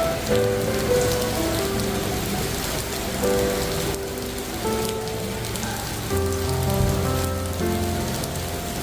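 Steady rain falling, with background music of held notes playing over it and a low bass note for a stretch in the second half.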